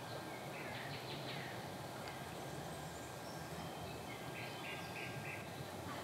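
Birds calling over a steady low outdoor hiss, with a few calls about a second in and a run of four short notes near the end.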